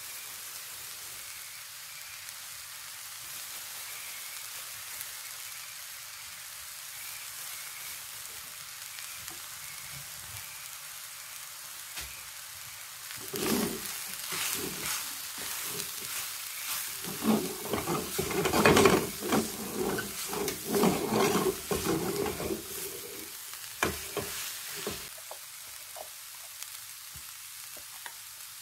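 Chopped butterbur buds (fukinoto) sizzling steadily in a frying pan. From about halfway, a silicone spatula stirs and tosses them, scraping against the pan, louder and busier for several seconds before the steady sizzle returns near the end.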